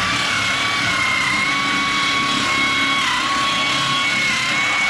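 Pneumatic air nibbler cutting a sheet-metal rocker patch panel: a loud, steady air-motor whine over hiss, dipping briefly in pitch about three seconds in.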